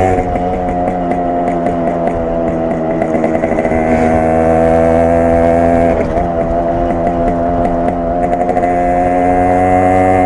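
Yamaha RX 100's two-stroke single-cylinder engine and exhaust under way on a ride. The engine note dips near the start, rises, dips again about six seconds in, then climbs steadily.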